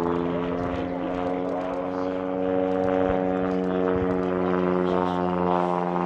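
Propeller airplane engine running at a steady pitch: a continuous buzzing drone with many overtones.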